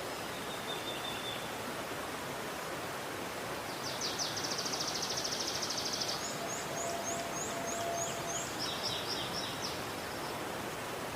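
River water flowing with a steady rush. A small bird sings over it from about four seconds in: a rapid high trill, then a run of about seven quick high notes, then a few lower notes.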